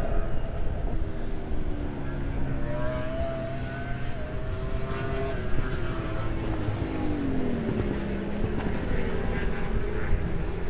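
Racing superbike engines running, with several engine notes at once rising and falling in pitch. One drops clearly about seven seconds in.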